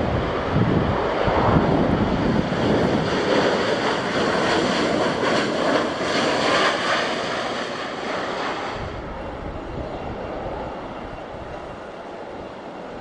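Boeing 737-800 jet engines running loud as the airliner lands, with gusty wind buffeting the microphone. The jet noise cuts off sharply about nine seconds in, leaving quieter wind.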